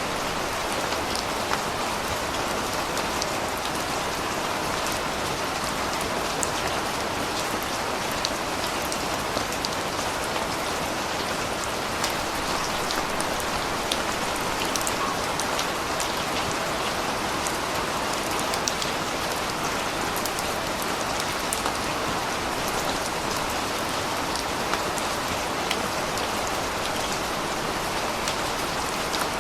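Steady rain falling on a surface, with scattered individual drops ticking sharply over an even hiss.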